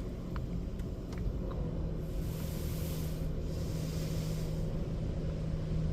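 Nu-Star Super Comet touchless car wash heard muffled from inside the car: a steady low hum, with a soft hiss of spray on the car from about two seconds in until near five seconds.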